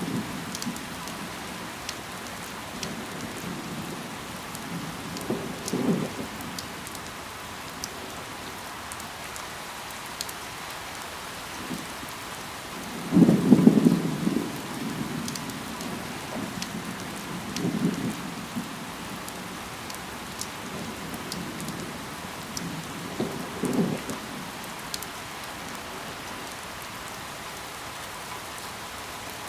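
Steady rain falling, an even hiss with scattered sharp drop ticks. Every few seconds a short low rumble swells up and fades, the loudest about halfway through.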